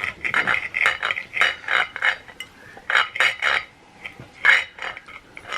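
Knife and fork scraping and clinking on a plate in quick, repeated strokes, cutting into a steak, with a couple of brief pauses.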